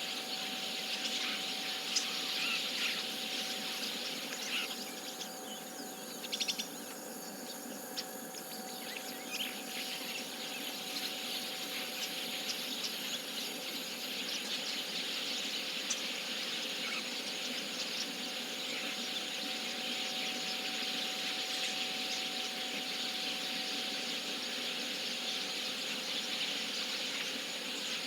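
A flock of chestnut-cheeked starlings chattering together in a dense, continuous mass of short calls as they gather at their roost. The chatter thins for a few seconds about five seconds in, then builds back up.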